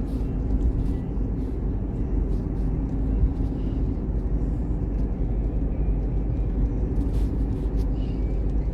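Steady low rumble of road and engine noise inside a moving car's cabin, with faint scattered light ticks.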